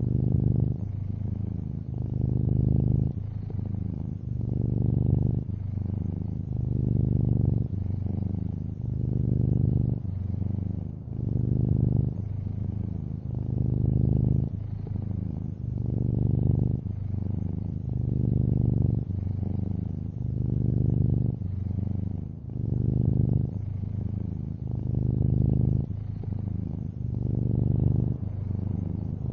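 Long-haired orange tabby cat purring, a low rumble that swells and eases with each breath, about one breath every two seconds.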